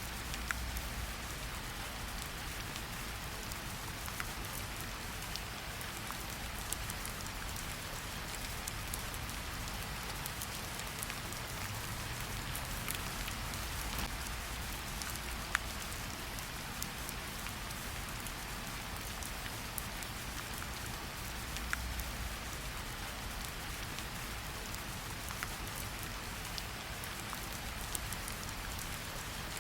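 Steady rain falling in a forest, an even hiss with scattered individual drops ticking close by.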